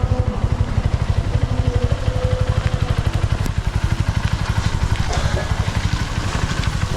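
Honda XR150's single-cylinder engine idling, a steady, rapid, even pulse.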